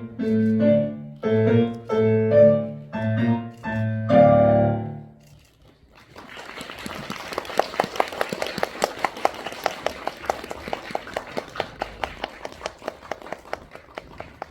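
Piano playing a run of chords that ends on a long final chord about four seconds in. After a short pause, an audience applauds, the claps falling into a steady, even beat.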